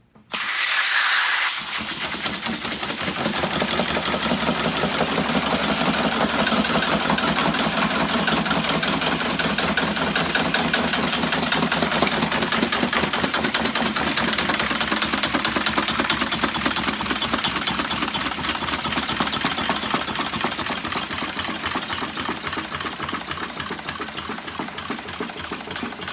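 Homemade two-cylinder compressed-air engine built from an old Schwinn bicycle pump starting abruptly with a burst of air hiss, then running fast as a rapid, steady clatter of exhaust puffs and valve ticks. It slowly gets quieter toward the end as its compressed-air tank runs low.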